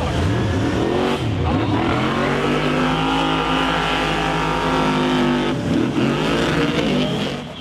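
Monster truck engine revving, its pitch swinging up and down, then held steady for a few seconds before the revs break off near the end.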